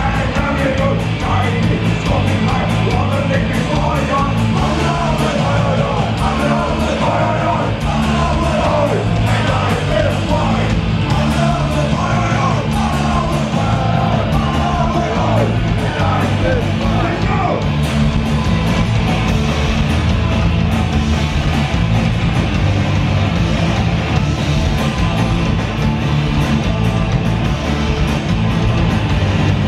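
Live punk rock band playing loud, with distorted guitars, bass and drums, and shouted vocals through much of it.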